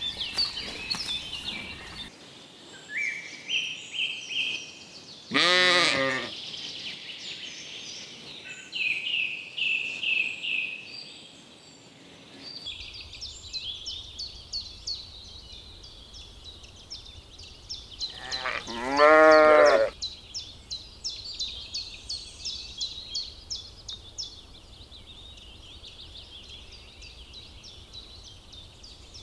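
Sheep bleating twice, each a single wavering bleat about a second long, the second louder. Small birds chirp and twitter throughout.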